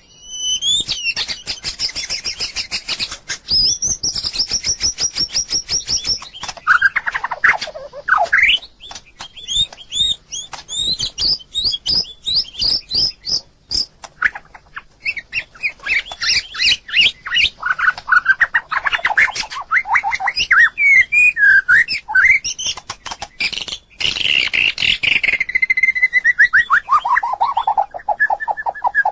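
White-rumped shama singing: varied whistled phrases that swoop up and down, over rapid clicking notes, with a long run of notes falling in pitch near the end.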